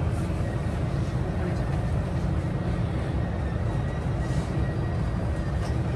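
Steady low rumble of a JR West 323 series electric train running, heard from inside the passenger car.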